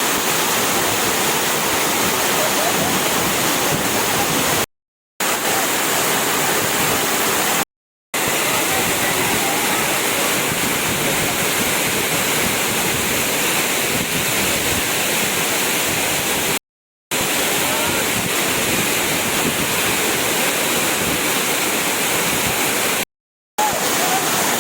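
Waterfall: a steady, loud rush of falling water. It is broken four times by short silent gaps of under half a second.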